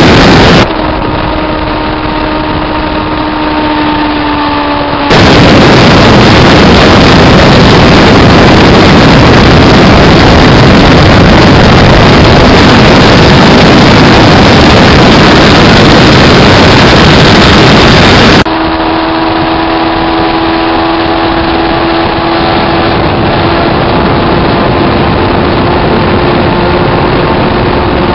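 Motorcycle parallel-twin engines running: a steady engine note for about four seconds, then a loud, harsh, distorted rush for about thirteen seconds, then the steady engine note again until the end.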